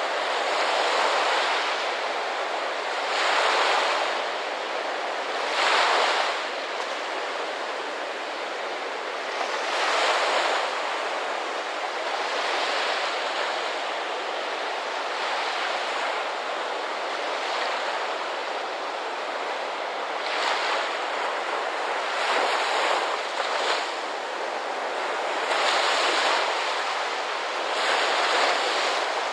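Ocean surf: a continuous wash of water with a wave breaking every few seconds, some surges louder than others.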